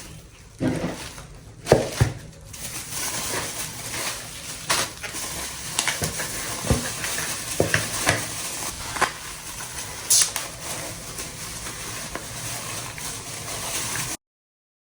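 Food sizzling in a frying pan while it is stirred, with scattered clicks and scrapes of the utensil against the pan. The sound cuts off suddenly near the end.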